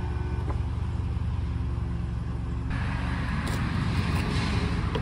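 The CL65 AMG's twin-turbo V12 idling: a steady, even low hum. A rushing hiss joins about halfway through, and there are a few faint clicks.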